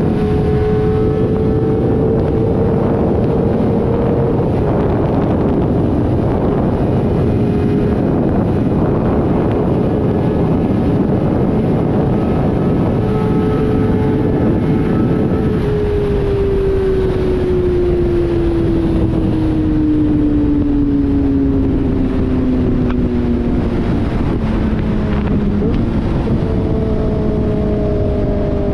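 Kawasaki ZX-4RR's inline-four engine through an SC-Project slip-on exhaust, running under way at steady high revs, with wind rushing over the microphone. In the second half the pitch slides steadily down as the bike slows, then jumps back up near the end.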